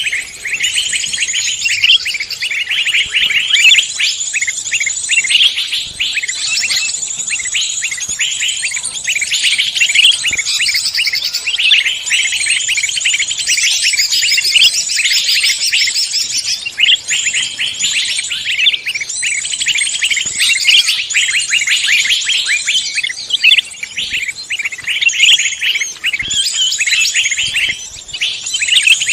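Many songbirds singing at once: a dense, unbroken mass of fast, high chirps and trills.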